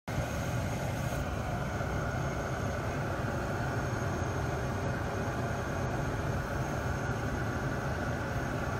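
Abarth 595's air-conditioning system making a steady abnormal noise: a continuous low hum under a mid-range rushing sound, with a faint thin high whine.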